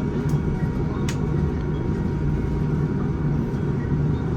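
Steady low rumble in the passenger cabin of a Boeing 787-9 taxiing after landing, with a faint click about a second in.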